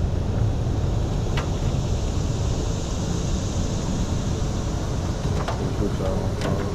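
Wind buffeting the microphone: a steady low rumble, with one sharp click about a second and a half in.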